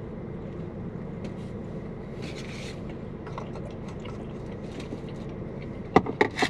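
Steady low hum of a car cabin with the engine idling, under faint chewing and wet mouth sounds as a burger is eaten. A brief rustle of a wrapper a couple of seconds in, and a few sharp clicks near the end.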